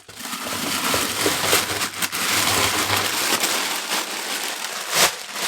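Plastic food packaging crinkling and rustling as it is handled, with a few sharper crackles, the loudest about five seconds in.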